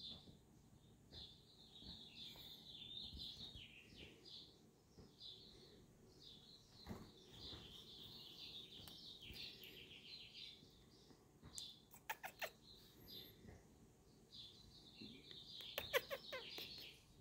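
Faint birds chirping and twittering on and off, with a few sharp clicks about twelve seconds in and a louder cluster of clicks near the end.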